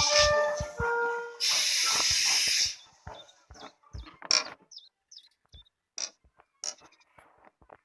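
Cartoon steam-train hiss sound effect: a loud burst of steam lasting just over a second, following the tail of cheerful music, then only faint scattered clicks.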